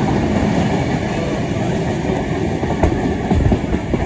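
Train running along the line, heard from on board a carriage hauled by steam locomotive 3801: a steady rumble with the wheels clicking over rail joints.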